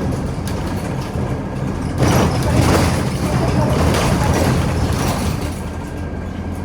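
Scania OmniCity city bus under way, heard from inside the cabin: steady engine and road rumble, with a louder rushing stretch from about two to five seconds in.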